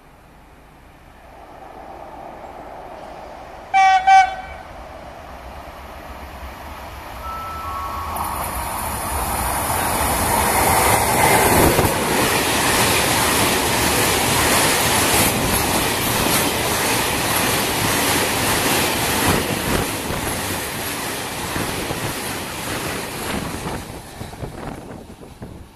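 Freight train hauled by an electric locomotive: two short horn blasts about four seconds in as it approaches, then the locomotive and a long string of open-top freight wagons pass at speed, wheels clattering over the rail joints, the noise fading near the end.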